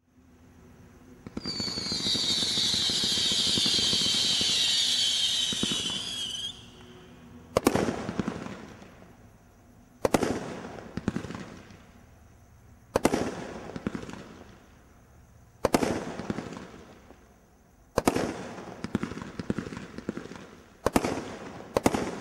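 Brothers Poison Ivy 31-shot firework barrage firing. It opens with about five seconds of continuous high screeching from screaming tails, then a string of single sharp bangs about every two to three seconds, each trailing away.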